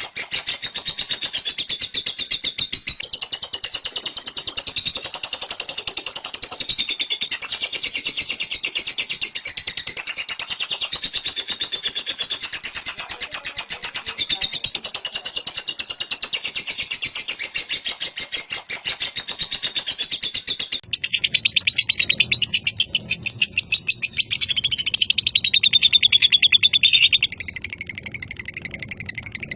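Lovebird 'ngekek': a long, unbroken, very fast high-pitched chattering trill with a wavering pitch. It gets louder about two-thirds of the way through, then drops back shortly before the end.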